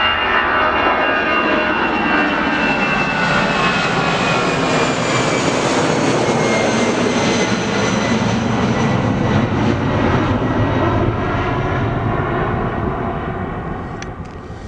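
Jet airliner passing close by, its turbofan whine sliding down in pitch as it goes past over a loud steady engine noise, then fading near the end.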